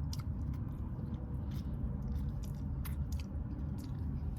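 Close-up chewing of a soft taco, with wet mouth clicks scattered through it, over a steady low rumble.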